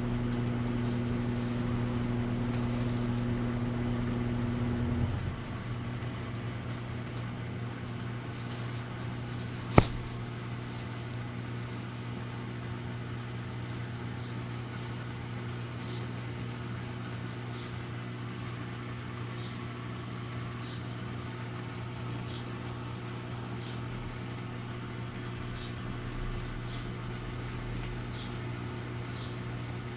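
Electrolux Essential Care LES11 washing machine running with a steady hum. About five seconds in, part of the hum cuts off and it gets quieter, and a single sharp click comes near the ten-second mark.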